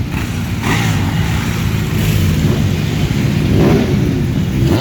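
Motorcycle engines running in passing traffic, with a rev rising and falling about three and a half seconds in.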